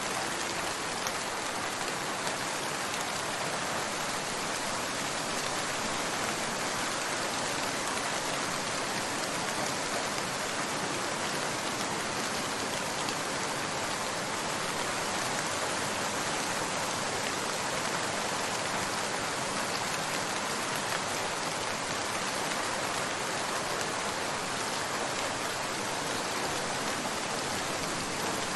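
Steady rain falling, an even hiss of many drops on a surface with no change in strength.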